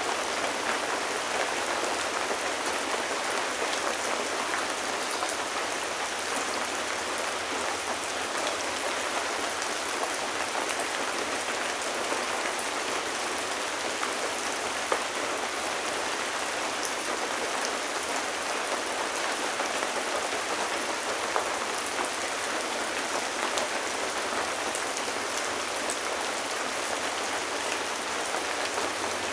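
Steady rain falling, an even hiss of rain on surfaces with scattered drops pattering.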